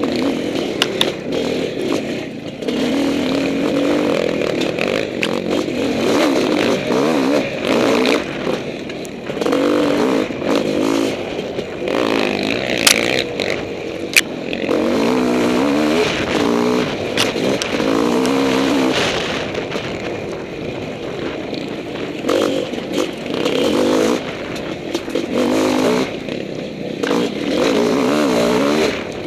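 Honda CR500 two-stroke single-cylinder dirt bike engine revving and easing off over and over, its pitch rising and falling with the throttle, with two sharp knocks about halfway through.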